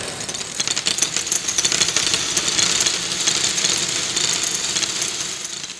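Designed sound effect from a motion-graphics soundtrack: a dense, steady, crackling rattle of fine rapid clicks that cuts off suddenly near the end.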